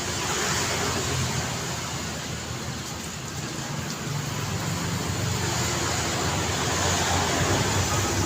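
Road traffic on a busy street: car and motorbike engines and tyre noise passing continuously, with a vehicle drawing closer and louder near the end.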